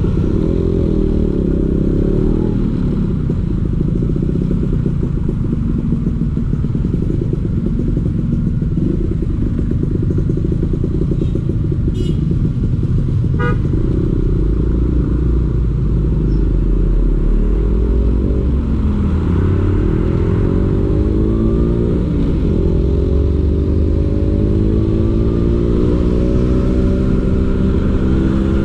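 Vespa PX 150's two-stroke single-cylinder engine running through a DRC Victory racing exhaust while riding, the engine note dipping and then climbing several times in the second half as the revs rise and fall.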